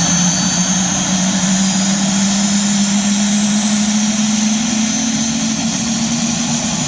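An SA342M Gazelle helicopter's Turbomeca Astazou turboshaft engine running just after start at about 25,500 RPM, with the rotor still held by the rotor brake. It makes a steady turbine whine with a strong tone that rises slowly in pitch.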